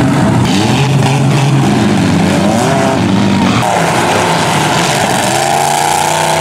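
Engines of demolition derby cars revving hard, several at once, their pitch rising and falling as they accelerate. The sound changes abruptly about three and a half seconds in, and one engine climbs steadily in pitch near the end.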